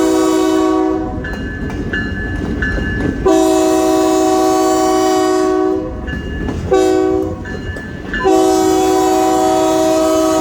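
Diesel locomotive air horn on an Iowa Interstate work train sounding a chord in blasts: the end of one long blast, then a long one, a short one and a long one, the long-long-short-long grade-crossing signal. Rumbling noise fills the gaps between blasts.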